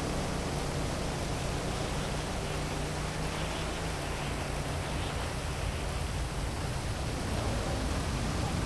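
Heavy rain falling steadily as an even hiss, over a low city rumble.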